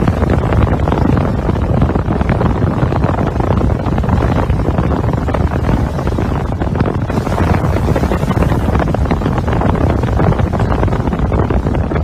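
Hailstorm: a loud, dense clatter of countless hailstones striking, mixed with wind buffeting the microphone.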